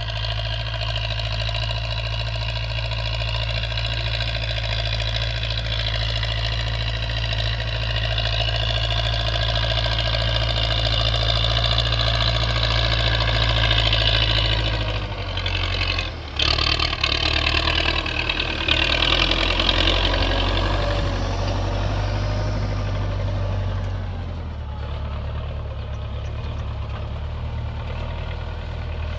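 Tractor engine running steadily while pulling a plough through a field. About halfway through, its note shifts, with a brief dip and a few seconds of uneven, louder running, then it settles at a lower note near the end.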